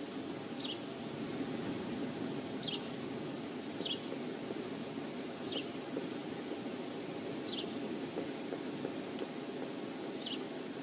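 Wind rushing steadily over an outdoor microphone. A small bird calls over it six times, each a short high chirp, spaced a second or two apart.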